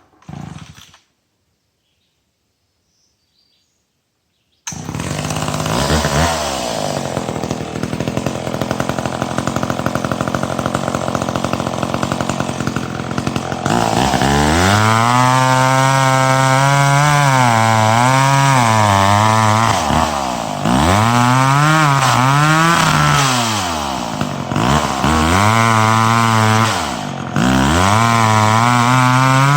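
Chainsaw comes in abruptly about five seconds in, running steadily, then from about halfway is worked hard in a cut through dead ash wood, its engine pitch sagging and recovering again and again under load, with a few brief let-offs of the throttle.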